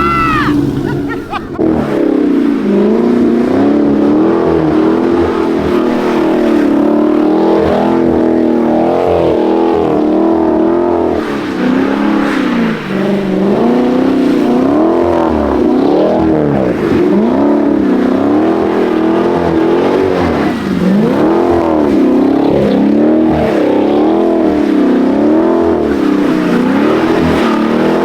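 Full-bolt-on Chevrolet Camaro engine revving up and down over and over, its note rising and falling about once a second, as the car spins and slides in snow.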